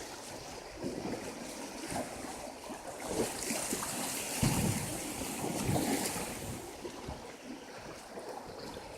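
Turbulent river water rushing and splashing around a raft, with wind on the microphone; the rush of water grows louder about three seconds in and eases off again after about six seconds.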